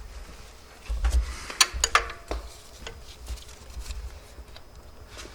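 A wrench being worked on a tight lock bolt: several sharp metallic clicks and knocks with low thumps about one to two seconds in, then lighter scattered ticks.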